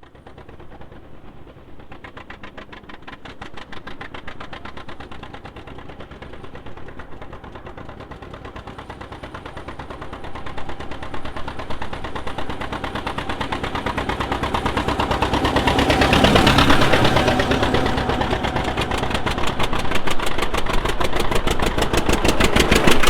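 Antique two-cylinder John Deere tractor engine running, with its rapid, even exhaust beat. It grows louder as it comes closer, loudest about two-thirds of the way through, and stays loud to the end.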